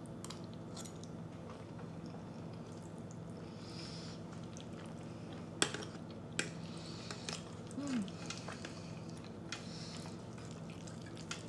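Close-up wet chewing of a mouthful of creamy shrimp linguine Alfredo. A few sharp clicks of a metal fork against the plate come midway, the loudest about five and a half seconds in, over a steady low hum.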